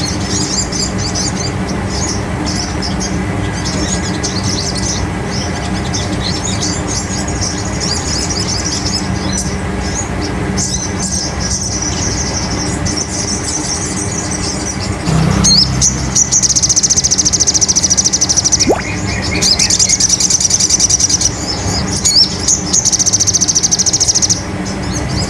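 Sogon sunbird song played as a lure: a quick run of high, thin chirps, then three loud stretches of a very fast, high trill in the second half, over a steady low rumble.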